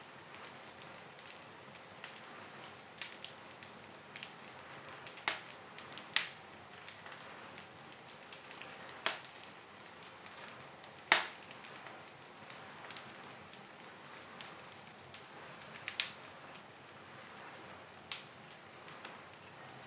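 Wood fire burning in a fireplace: irregular sharp crackles and pops over a soft steady hiss, the loudest pop about eleven seconds in.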